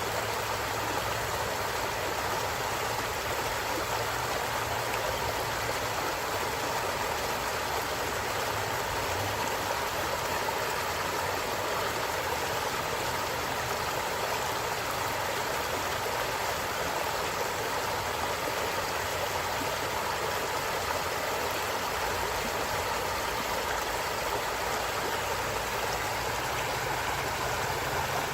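Stream running steadily over stones, a continuous even rush of water.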